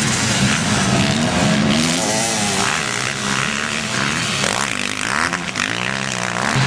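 Motocross motorcycle engines racing, their pitch rising and falling repeatedly as the riders open and close the throttle and shift gears.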